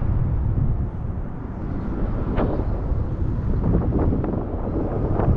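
Wind buffeting an action camera's microphone on a moving e-bike, a steady low rumble, with a few short knocks or rattles scattered through it.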